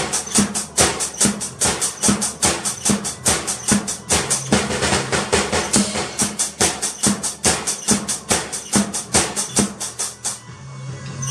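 Drum kit played in a steady beat along with a backing music track: crisp, evenly spaced strokes about four to five a second with heavier drum hits among them. The drumming stops about ten seconds in while the music carries on.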